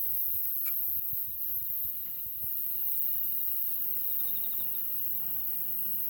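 Wood campfire with scattered sharp crackles and pops, over a steady high-pitched insect chirring, likely crickets; a short rapid chirp sounds about four seconds in.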